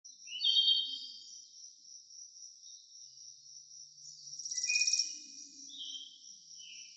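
Birdsong over a steady high insect drone: short falling chirps near the start and near the end, and a quick trill about halfway through.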